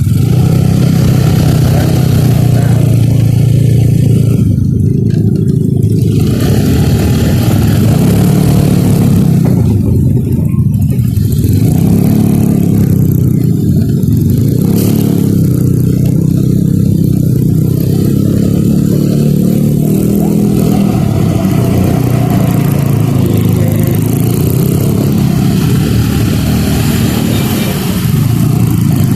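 Motorcycle engine running while under way, its pitch rising and falling several times as the throttle changes.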